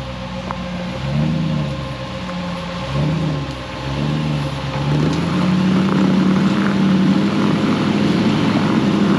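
A Jeep's engine on an off-road trail, revved up and back down in two short blips, then held at steadier, higher revs and louder from about five seconds in.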